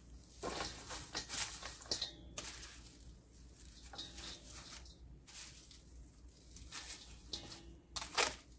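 Irregular rustling and light handling noises: bunches of cut garlic chives being handled and put into a mixing bowl.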